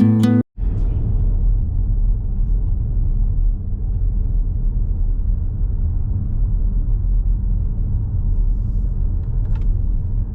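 Acoustic guitar music cuts off about half a second in. Then a moving car's steady road and engine rumble is heard from inside the cabin.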